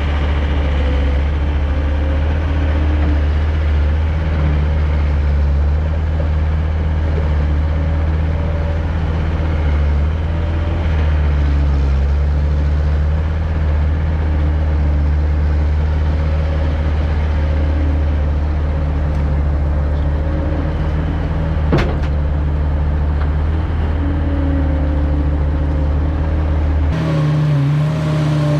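Farm tractor engine running steadily with a low, loud drone, a single sharp click about 22 seconds in, and an abrupt change in the engine tone near the end.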